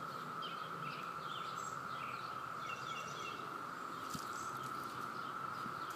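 Chorus of periodical (17-year) cicadas: a steady, unbroken high hum that the filmer likens to a car alarm going off. Birds chirp briefly over it.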